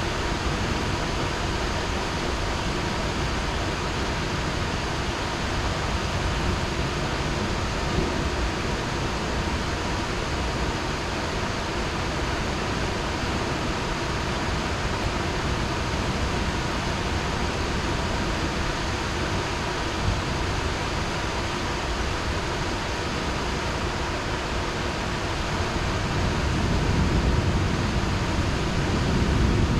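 Heavy rain falling steadily, an even hiss. Near the end a low rumble swells up under the rain.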